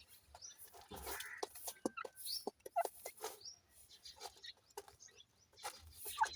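Partridge chicks calling: many short, irregular calls, some high and rising, others lower, mixed with short sharp clicks.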